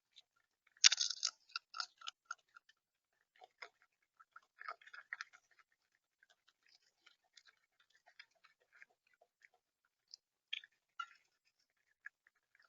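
Irregular clicks and taps on a bird feeder's seed tray, the sound of feeding at the feeder. A dense flurry of clicks comes about a second in, with more around the middle and a couple near the end.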